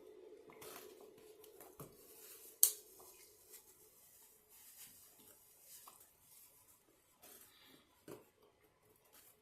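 Faint handling sounds: light clicks and rustles, with one sharp click about two and a half seconds in and a short low thud near the end. A steady low hum fades out after the first few seconds.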